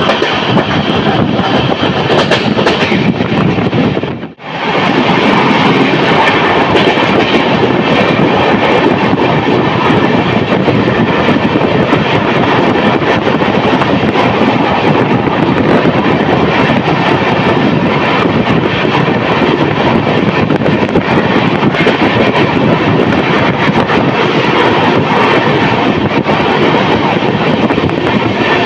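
Express train running at speed, heard from beside an open coach door: a steady, loud clatter and rumble of wheels on the rails, with the sound cutting out briefly about four seconds in.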